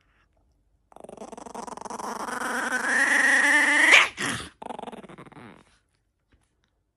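A dog growling: a rough, pulsing growl that grows louder and rises in pitch over about three seconds, then two shorter growls. It stops about five and a half seconds in.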